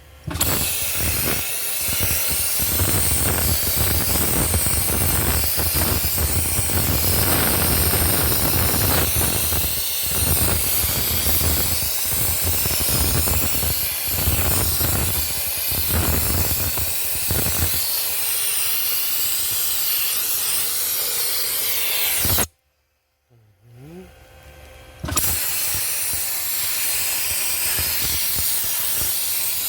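Dry ice blaster shooting pellets on compressed air to clean a car's engine bay: a loud steady hiss that cuts off suddenly about three-quarters of the way through and starts again a few seconds later.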